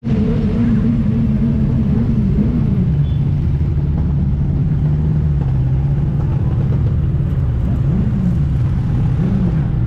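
Motorcycle engine running at low, steady revs. Its pitch settles lower about two and a half seconds in, then rises briefly twice near the end.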